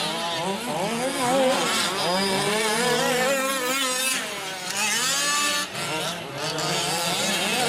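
Several gas-powered 1/5-scale RC off-road trucks racing, their small two-stroke engines overlapping and revving up and down as they accelerate and brake around the track.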